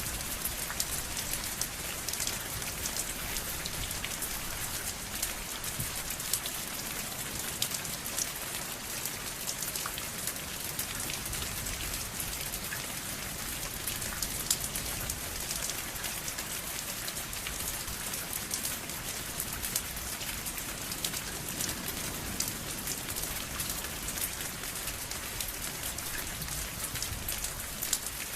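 Steady rain falling, an even hiss with many small drop ticks and a low rumble underneath.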